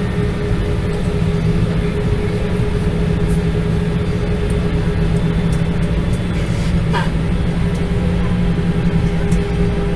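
Steady cabin drone of an Airbus A320, heard from a window seat: a constant low hum with a steady higher tone over it, unchanging throughout.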